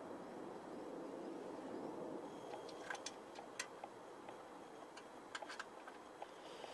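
Faint light clicks and ticks of screws and nuts being handled and fitted by hand on a motorcycle muffler's end cap, in two short clusters about three and five seconds in, over a steady low background hum.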